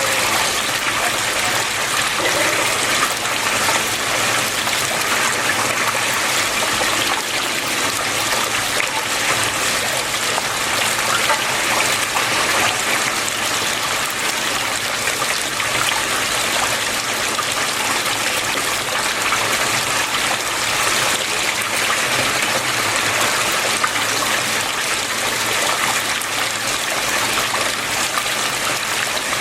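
Water flowing and trickling steadily in a stream, an even splashing rush without pause.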